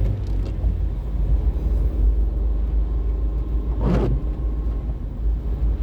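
Steady low rumble of a car cabin while driving, with engine and road noise. A brief short vocal sound comes about four seconds in.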